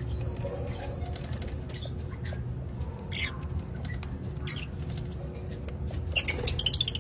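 Lovebird (red factor opaline) giving short high-pitched chirps and squeaks: one about three seconds in and a quick run of them near the end, over a steady low hum.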